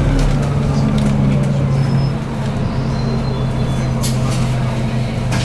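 Scania N280UD double-deck bus's 9-litre biogas engine pulling steadily under way, heard from inside the bus; the engine note drops a little about two seconds in. A brief sharp click about four seconds in.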